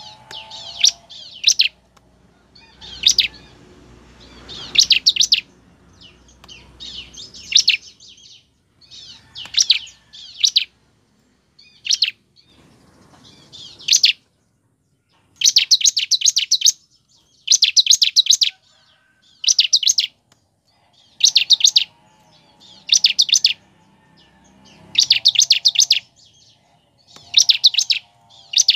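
Bar-winged prinia (ciblek) singing in repeated short bursts of rapid, high, ticking trill notes, each burst under a second long and one to two seconds apart. The bursts become steadier and louder about halfway through.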